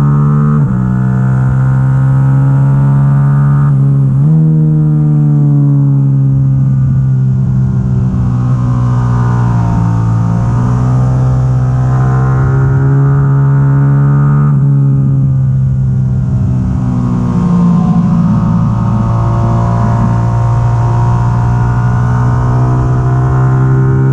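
2022 Yamaha R7's stock parallel-twin engine at race pace on track: its pitch falls and climbs as the bike brakes and accelerates, with sudden steps at gear changes, three of them.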